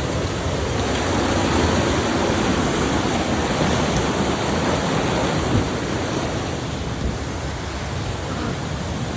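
Steady rushing noise of fast-moving water, even throughout with no separate events.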